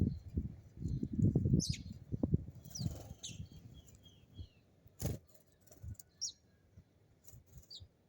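Small birds chirping in short, high, downward-sweeping notes, including a quick run of four or five notes about three seconds in. Low irregular rumbling thumps come through the first few seconds, and there is one sharp click about five seconds in.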